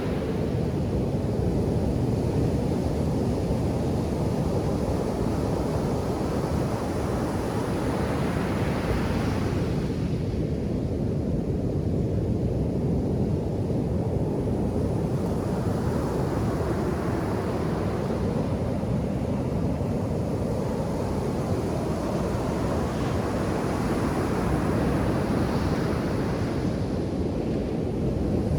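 Ocean surf breaking on a beach: a steady low rumble with a hissing wash that swells and fades about every eight to ten seconds as each wave breaks and runs up the sand.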